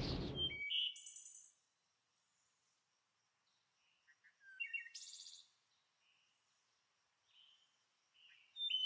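A thunder rumble cuts off abruptly about half a second in. It is followed by faint, high, chirping bird calls in short groups: about a second in, around five seconds in, and again near the end.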